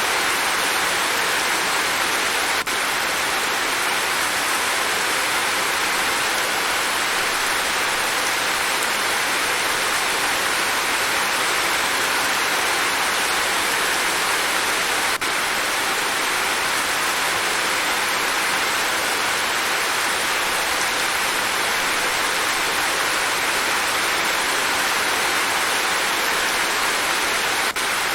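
Steady rain, an even hiss without distinct drops, thunder or other sounds. The level dips very briefly three times, about twelve seconds apart.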